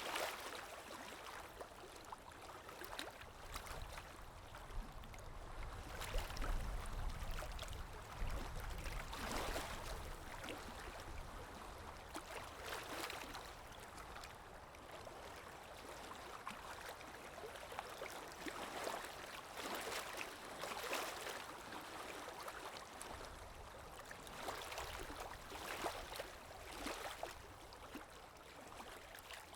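Calm sea waves lapping and washing in, one soft surge after another every second or two, with a low rumble swelling a few seconds in.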